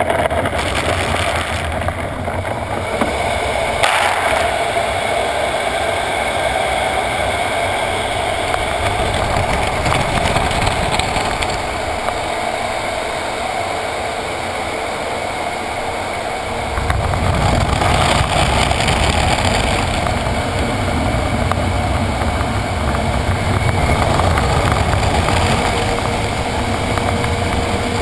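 Automatic car wash machinery working over a truck, a steady wash-and-spray noise heard from inside the cab, joined by a deeper rumble a little past halfway.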